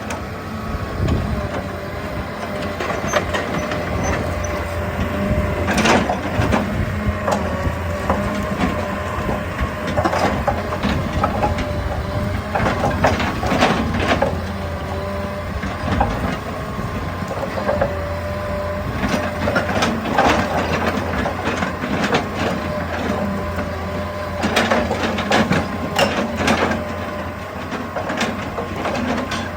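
Excavator running under load, its engine droning with a wavering hydraulic whine over it, and irregular knocks and scrapes of rock.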